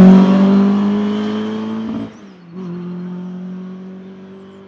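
Competition car's engine at full throttle, moving away and fading, with a brief cut about two seconds in as it shifts up a gear before pulling on more quietly.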